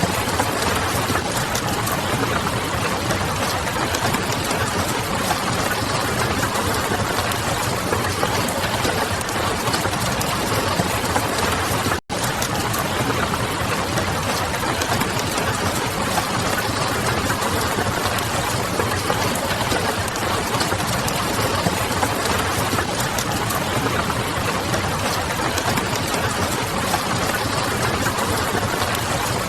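Steady rain noise mixed with the crackle of a wood fire and a low city hum, a dense unbroken hiss with small scattered crackles. It cuts out for an instant about twelve seconds in.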